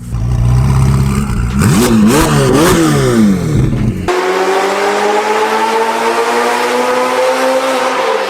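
Ferrari 488 Pista's twin-turbo V8 through an iPe titanium exhaust: a steady low idle, then several quick throttle blips rising and falling. After an abrupt cut it holds a long pull whose pitch climbs slowly.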